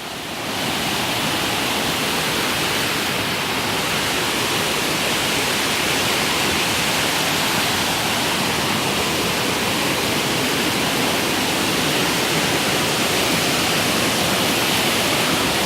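Large waterfall pouring steadily: a constant, even rush of water, running high after a long spell of rain.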